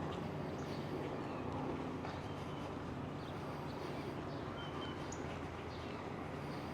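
Birds giving short, scattered chirps over a steady low background rumble.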